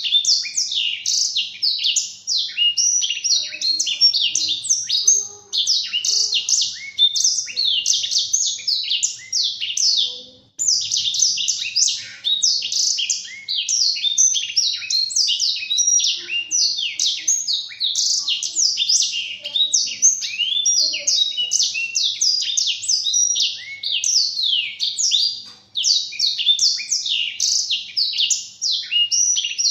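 Blackthroat (black-throated canary) singing a long, continuous twittering song of rapid, high, quick downward-sweeping notes, broken by a couple of brief pauses.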